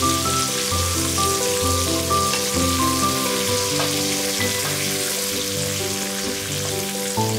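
Food sizzling in hot oil in a metal kadai, a steady hiss. Background music of slow held notes plays over it.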